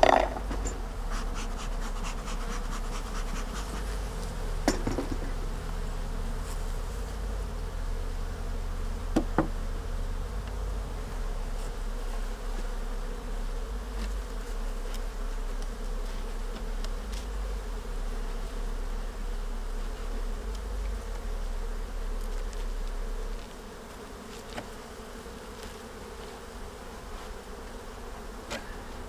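Honeybees buzzing steadily around an open hive, with a few sharp knocks of wooden hive frames and boxes being handled in the first ten seconds. A low rumble underneath stops about three-quarters of the way through, and the overall level drops.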